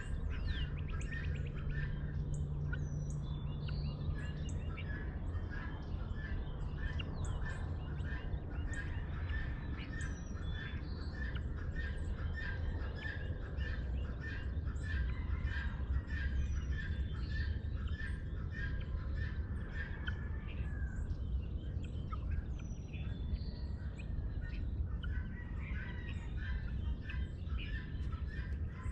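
Birds calling at dawn: one bird repeats a chirp about twice a second while others call higher and more sparsely, over a steady low rumble.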